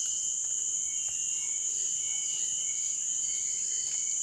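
Forest insects, such as crickets or cicadas, calling in a steady, continuous high-pitched chorus.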